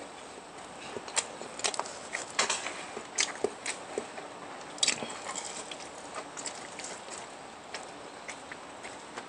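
Close-miked chewing and biting of food, with a run of sharp crunchy clicks between about one and five seconds in, then sparser, softer mouth clicks.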